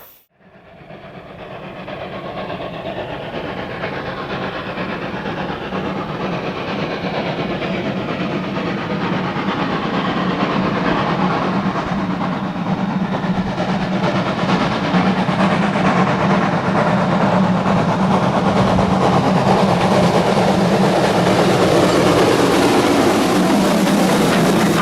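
Train approaching and passing close, its rumble and wheel noise growing steadily louder, with a steady low hum underneath.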